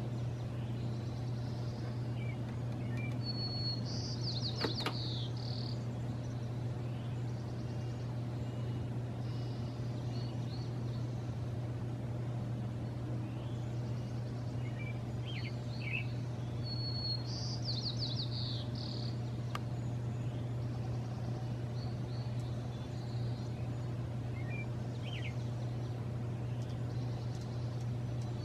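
A songbird repeats a short song three times, about every thirteen seconds: a clear held note followed by a quick buzzy trill. A steady low hum runs underneath.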